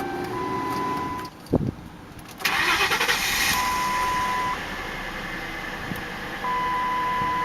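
Dashboard warning chime of a 2000 Lincoln Town Car limousine beeping a single steady tone about every three seconds, over the car running. About one and a half seconds in there is a sharp click. About a second later a loud, steady rushing noise starts and eases off a couple of seconds later.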